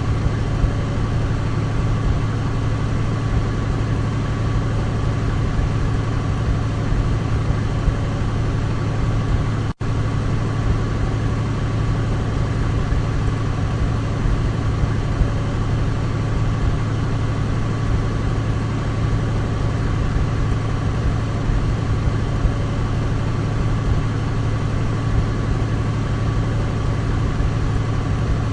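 Douglas DC-3's radial piston engines running at a steady drone, with a deep hum and a fainter steady higher whine above it. The sound drops out for an instant about ten seconds in.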